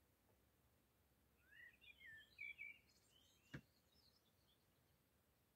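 Faint songbird chirps, a cluster of short notes that glide up and down, with one sharp click about three and a half seconds in.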